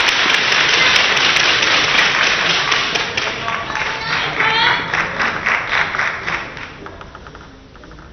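Crowd applauding and cheering, with a few shouts and clapping. It dies away over the last couple of seconds.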